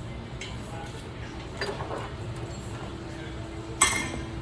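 A sharp knock about four seconds in, the loudest sound, with a short ring after it; a softer knock comes earlier, and a steady hum starts about halfway through.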